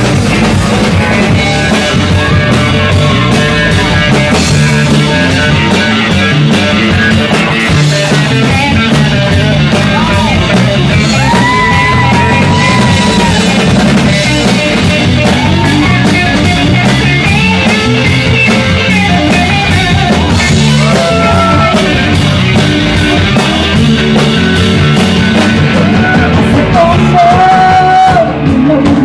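Live rock band playing loudly: electric guitars, bass guitar and drums, with a pitched melody line bending over the steady beat.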